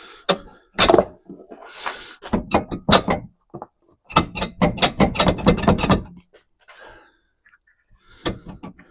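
Plastic headlight assembly of a 2009-2014 Ford F-150 knocking and clicking in rapid clusters as it is tugged and wiggled against retaining clips that won't let go.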